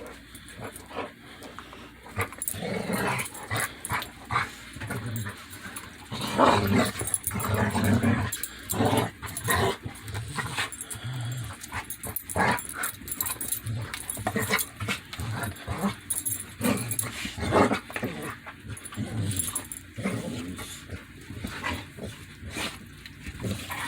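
Two dogs playing together, sneezing repeatedly at each other in short, irregular bursts mixed with low growls. Dogs sneeze like this as a play signal during friendly roughhousing.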